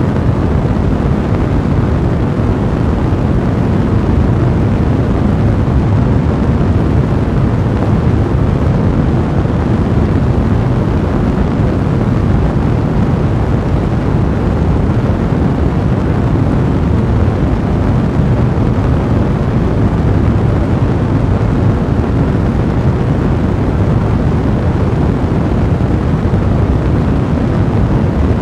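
Fire blazing in a fireplace, burning with a steady, even low rumble.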